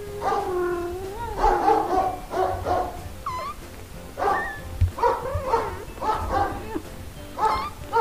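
A small pet animal crying over and over: short, high, pitched calls that bend up and down, with background music.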